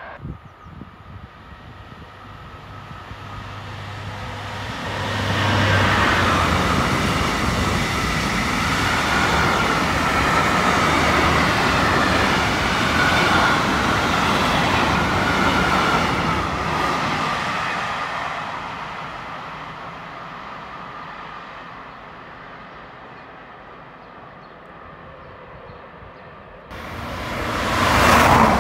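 A train passing by on the main line: it builds up over the first few seconds, holds loud with a steady whine for about ten seconds, then fades away. About a second before the end, an abrupt cut brings in another loud passing sound.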